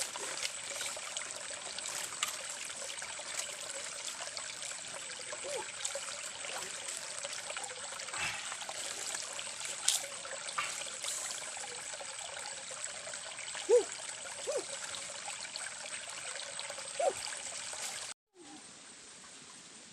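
Water trickling steadily in a small stream, with a thin steady high-pitched tone and a few short calls above it. The sound cuts off abruptly near the end, leaving a quieter background.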